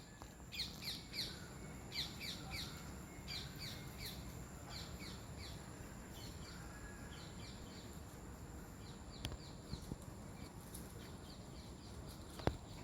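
Small birds chirping: quick high notes in groups of two or three, repeated over and over and busiest in the first few seconds, over a low rumble. A single sharp click near the end.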